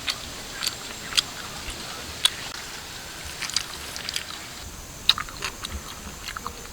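Someone eating roasted duck: irregular crunchy bites and chewing clicks, coming closer together near the end.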